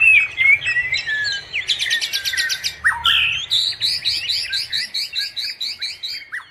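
Several wild forest birds singing and chirping together. About two seconds in, one bird gives a fast run of short notes, and over the second half another repeats a high chirp about four times a second.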